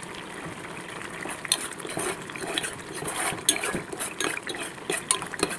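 Chutney being stirred in a cooking pan, the spoon clicking and scraping against the pan with irregular sharp knocks over a faint sizzle.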